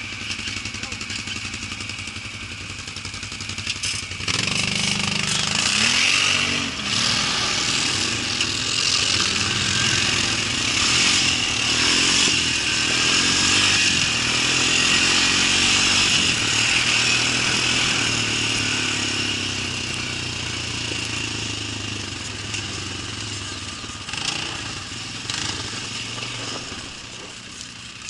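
A motor vehicle engine, coming in about four seconds in with a rise in pitch, running loudly through the middle and fading toward the end, as if passing by.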